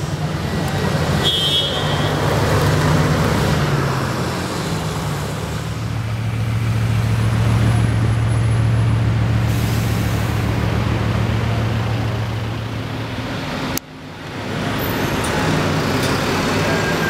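Bugatti Veyron's quad-turbo W16 engine running at low speed amid city street traffic, a low steady drone. It cuts off abruptly about fourteen seconds in, then picks up again.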